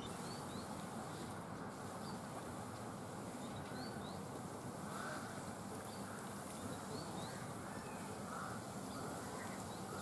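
Outdoor background with a steady hiss and short, high, rising bird chirps repeated every second or two.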